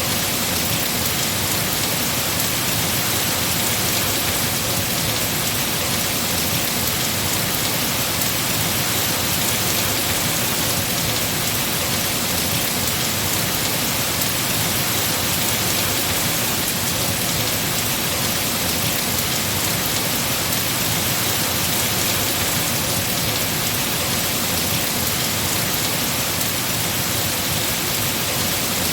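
Heavy rain falling steadily on tree foliage, a dense, even hiss with no distinct drops standing out.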